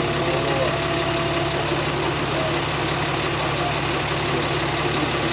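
A vehicle engine idling steadily, with faint voices in the background.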